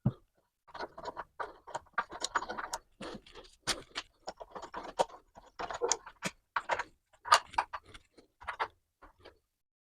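Irregular metallic clicks, clinks and knocks of the cast-iron swivel bench vise and tools being handled and put back together.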